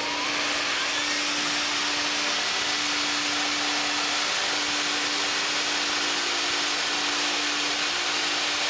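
Dyson cordless vacuum cleaner of just over 200 air watts switched on: its motor spins up with a rising whine in the first second, then runs with a steady hiss of rushing air.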